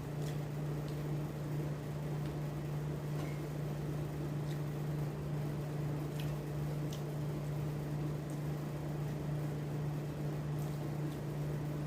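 A steady low mechanical hum, like a running appliance or fan motor, under a constant noise, with a few faint ticks.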